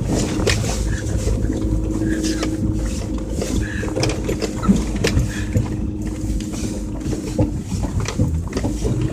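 2002 Toyota 4Runner's engine running steadily as it crawls off-road through snow, with frequent knocks and thumps from the rough ground.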